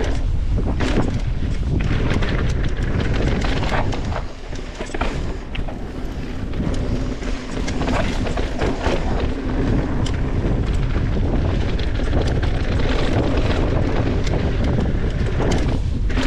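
Wind buffeting the microphone and mountain bike tyres rumbling over a dirt trail during a descent, with frequent sharp rattles and clatters from the bike, easing briefly about four seconds in.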